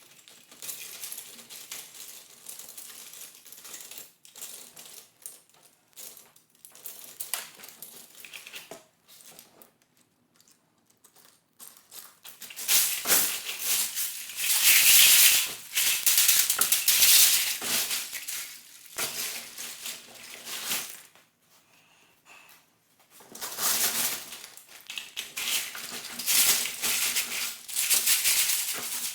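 Loose plastic LEGO pieces clattering and rattling against each other as they are handled. There are two louder stretches of heavy clatter, one about halfway through lasting several seconds and another near the end.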